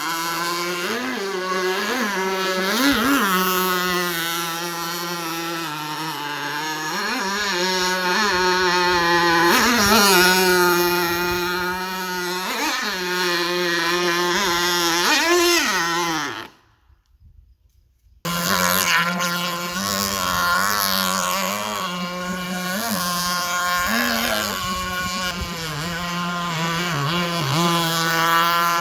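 Nitro engine of a radio-controlled jet-ski with a water-jet pump running hard, its pitch swooping up and down again and again as the throttle is worked, over a steady drone. The sound drops out for a second or two a little past the middle, then returns.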